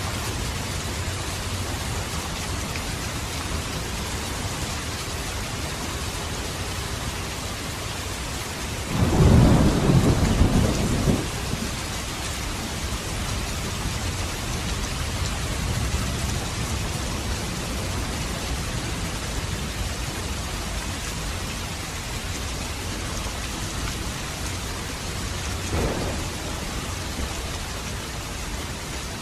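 Steady rain falling, with a loud rumble of thunder about nine seconds in that lasts around two seconds, and a fainter rumble near the end.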